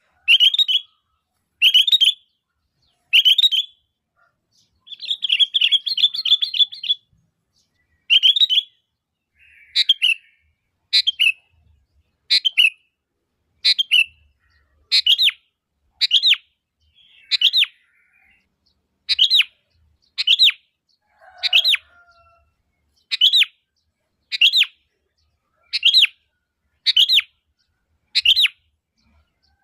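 Sooty-headed bulbul (kutilang) calling: short sharp chirping notes repeated about once a second, with a rapid run of chattering notes about five seconds in.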